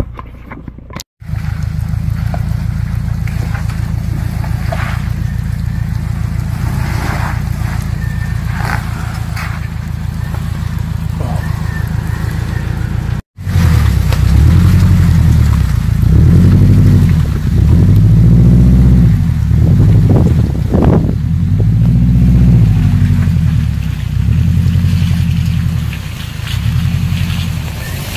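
Off-road vehicle's engine labouring steadily in low gear, heard from inside the vehicle, with faint knocks and rattles. After a brief dropout about 13 seconds in, it runs louder and its pitch rises and falls over and over as the throttle is worked over rough ground.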